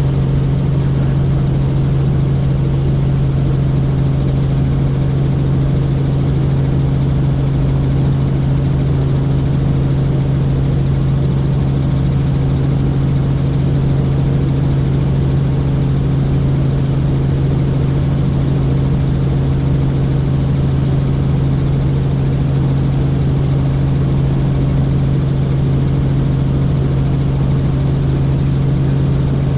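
Helicopter in flight: a steady, unchanging drone of rotor and engine with a strong low hum.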